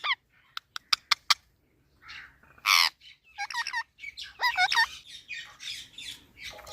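Parrots squawking and calling: a few sharp clicks about a second in, a harsh screech about three seconds in, then a run of quick warbling calls through the second half.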